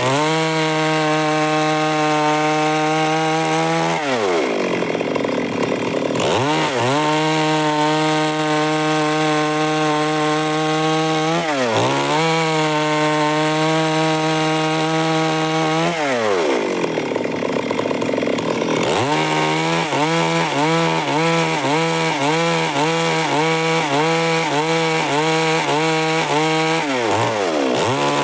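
Stihl MS 382 two-stroke chainsaw running at high revs as it cuts through wood. Its pitch drops and climbs back several times, and for a stretch near the end it wavers about once a second.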